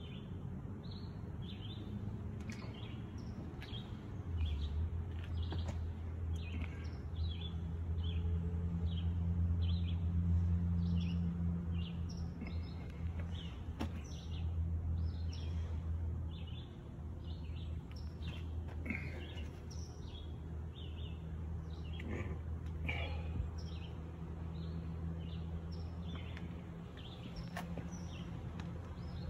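Birds chirping in short, repeated calls over a steady low rumble that swells for several seconds and then settles back.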